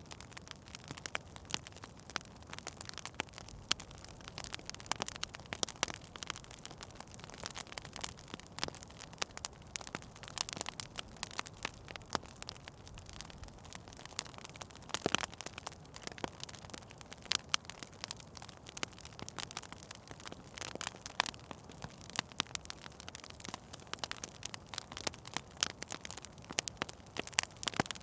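Wood fire burning in a fireplace: an irregular crackle of sharp pops and snaps over a soft hiss.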